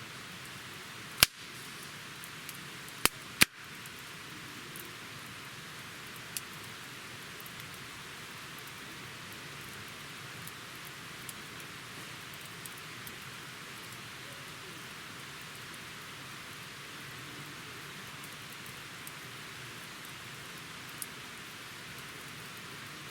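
Wood campfire burning with a steady hiss, broken by sharp crackles and pops: three loud pops in the first few seconds, then a few fainter ones.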